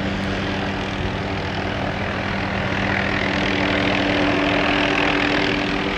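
Helicopter hovering, a steady drone with a few constant hum tones that grows a little louder about halfway through.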